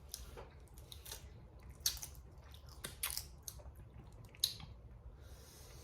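Cooked crawfish being cracked, peeled and eaten by hand: irregular sharp clicks of shell snapping, with small wet squishes and chewing.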